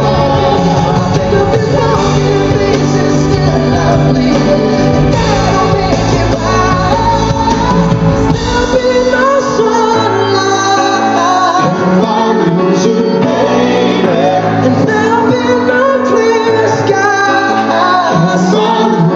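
Live band music with wordless sung vocal runs and backing voices. About nine seconds in, the bass falls away for long stretches, leaving the voices over lighter accompaniment.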